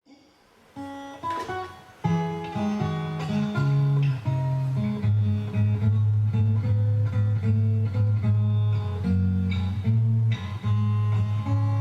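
Acoustic guitar playing the instrumental introduction of a song: picked notes over a steady low bass line, a few soft notes first and then coming in fully about two seconds in.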